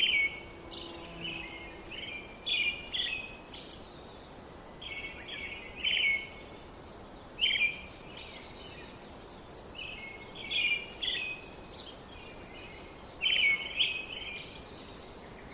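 Songbirds chirping: short, high bursts of song repeating every second or two over a faint steady background hiss.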